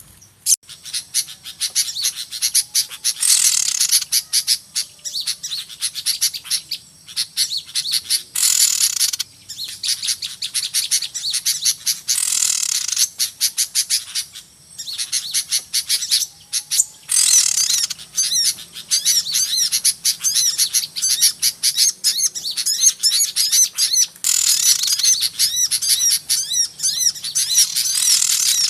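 A flock of small songbirds chirping and calling rapidly and continuously, high-pitched and busy, with louder bursts of twittering every few seconds; a bird-lure recording used to draw small birds to a trap.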